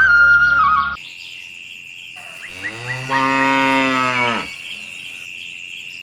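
A cow moos once, a long low call lasting about two seconds near the middle. Flute music stops about a second in, leaving a steady high-pitched whine.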